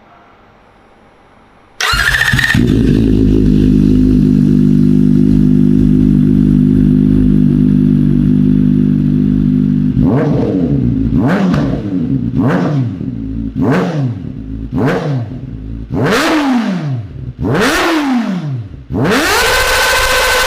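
Kawasaki Ninja ZX-4RR's inline-four engine, fitted with an Akrapovic exhaust, starting about two seconds in and idling steadily. About halfway through it is revved in a string of quick throttle blips, each climbing higher, and the last is held high for about a second before dropping back.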